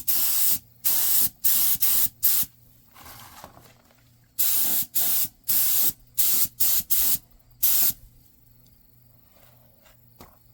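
Spray paint hissing in about a dozen short bursts, in two quick runs with a pause between, stopping about eight seconds in: primer being sprayed onto rusty truck frame parts.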